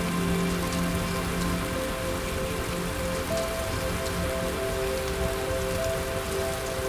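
Steady rain falling on a surface, with soft music of long held notes changing slowly underneath.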